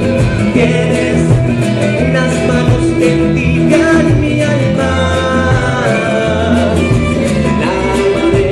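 Live band playing a Latin American folk-style song with guitar and a steady bass line.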